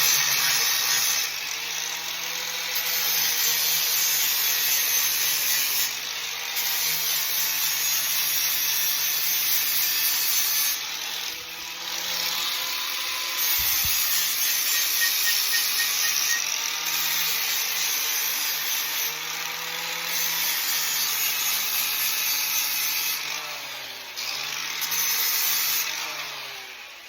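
Power grinder cleaning a steel roll-cage tube down to bare metal for welding: a steady grinding hiss over a motor whine that sags each time the tool bears on the metal and picks up again as it eases off, in stretches of a few seconds.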